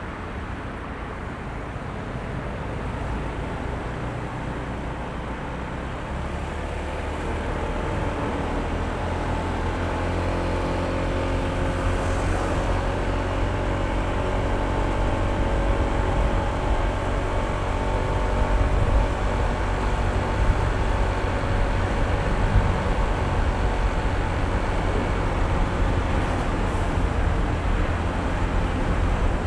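Honda ADV160 scooter under way: road and wind rumble with the hum of its single-cylinder engine, growing louder from about seven seconds in.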